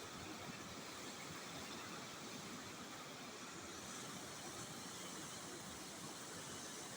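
Steady, even rushing of fast-flowing floodwater.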